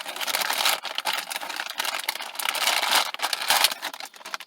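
Plastic cookie packaging crinkling and rustling continuously as it is handled and opened, stopping abruptly at the end.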